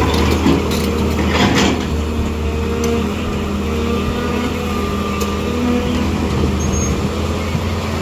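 A large vehicle or machine engine running steadily, with a few knocks in the first two seconds.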